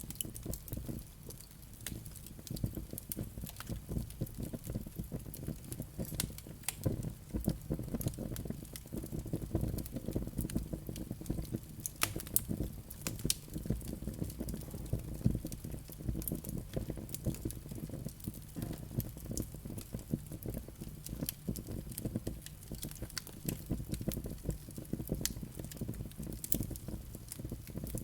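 Wood fire crackling, with many irregular sharp pops over a steady low rumble of the flames.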